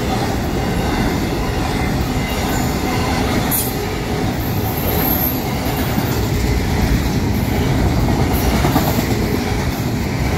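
Double-stack intermodal well cars of a freight train rolling past close by: a steady loud rumble and clatter of steel wheels on the rails, with a brief high squeal about halfway through.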